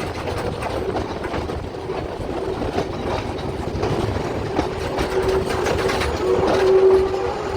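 Passenger express train running on the rails, heard from aboard: a steady rumble with wheel-on-rail clicks, and a held squeal from the wheels that swells near the end.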